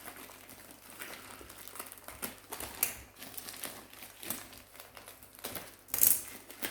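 Thin plastic packaging crinkling and rustling as it is handled, in irregular crackles with a louder burst about six seconds in.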